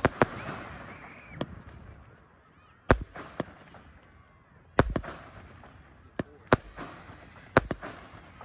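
Aerial fireworks bursting: about a dozen sharp bangs at uneven intervals, some in quick pairs, with crackling after the first few bursts.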